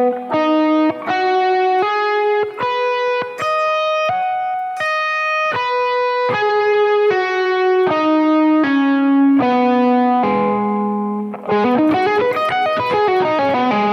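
Electric guitar through an Axe-Fx II amp modeller playing an E major arpeggio slowly, one note at a time with hammer-ons and pull-offs, each note held and ringing. About eleven seconds in it turns into a quicker run of notes going up and down.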